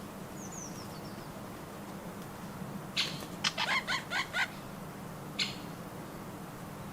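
Garden birds at a nut feeder: a few faint, high, falling chirps, then about three seconds in a sudden sharp sound followed by a rapid run of about six harsh notes, and one more sharp sound about two seconds later.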